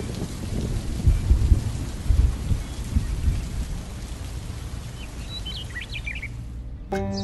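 Steady rain with low rolls of thunder, strongest about one to two and a half seconds in, and a few faint bird chirps near the end. The rain cuts off abruptly just before the end as music starts.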